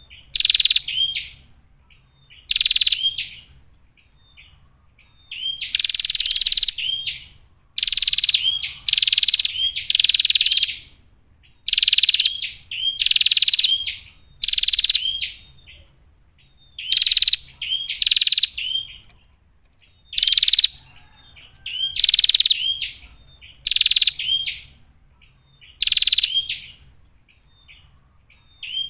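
Female prinia (prenjak) calling: rapid, buzzy trilled bursts of half a second to a second and a half, repeated over and over with short gaps of a second or two between them.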